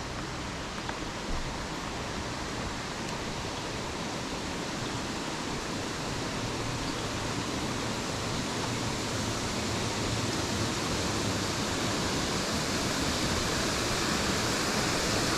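Steady rushing of a creek and small waterfall, growing gradually louder.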